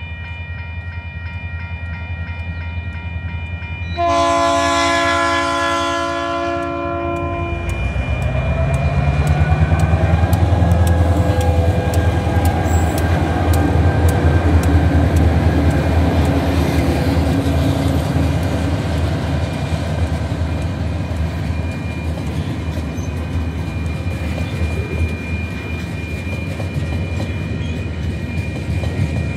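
Diesel locomotives of a TasRail coal train passing close: a multi-tone train horn sounds for about three seconds, starting about four seconds in. The locomotives' diesel engines then go by, loudest a few seconds later, followed by coal hopper wagons rolling past with steady wheel clatter.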